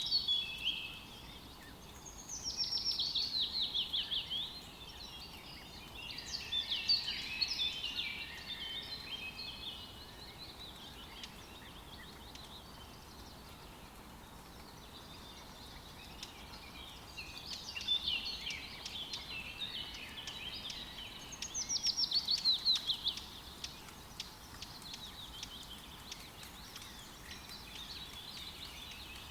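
Songbirds singing in separate bursts, a few seconds apart, two of them fast falling trills, over a faint steady hiss of light rain in a forest.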